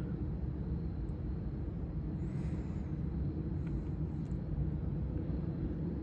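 Steady low rumble of an approaching Long Island Rail Road train hauled by DM30AC locomotives, with no horn in this stretch.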